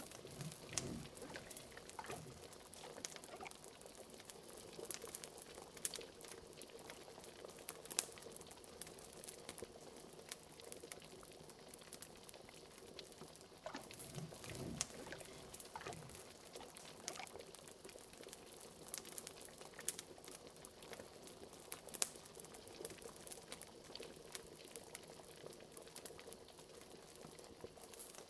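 Liquid bubbling at a boil in a cauldron, with a few deep glooping bubbles, over the scattered pops and crackles of a fire.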